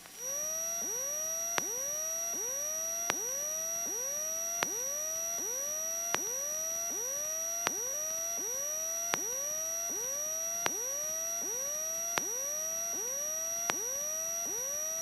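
Electronic chirp tones in the aircraft's intercom audio, each rising quickly and repeating about every three-quarters of a second, over a steady high whine, with a sharp tick on every other chirp. This is interference from a failing avionics unit, one that gives out shortly after.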